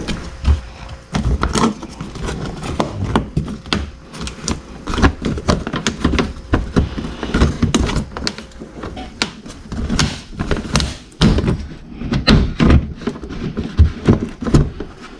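Irregular knocks, taps and clicks of plastic car parts being handled and fitted back into place while the fog light and front trim are reassembled.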